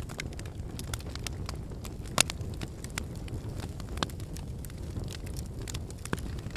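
Wood fire burning: a steady low rush of the flames with frequent sharp crackles and pops from the burning firewood, the loudest pop about two seconds in.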